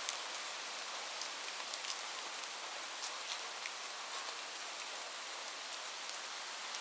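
Steady rain falling on a roof: an even hiss broken by scattered sharp ticks of single drops.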